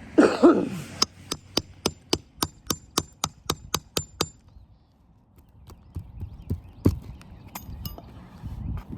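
Hammer striking steel in a quick run of about a dozen ringing blows, roughly four a second, while working a nail out of roof shingles. It opens with a short loud squeal and ends with a few scattered softer knocks.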